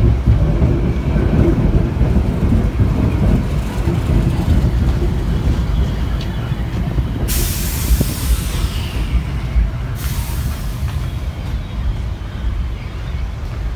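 Metro-North New Haven Line electric multiple-unit train rolling slowly alongside the platform, with a steady low rumble of wheels and running gear. About seven seconds in there is a sudden hiss of compressed air from the brake system lasting a couple of seconds, and a second hiss starts about ten seconds in and fades away.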